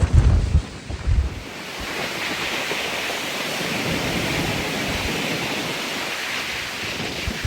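Strong wind rushing through the trees in a steady hiss, with wind buffeting the microphone in low thumps during the first second or so.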